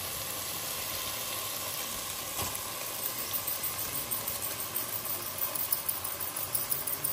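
Vegetables sizzling in a pan on the stove. From about three seconds in the sound turns uneven as cooked rice is tipped in on top of them.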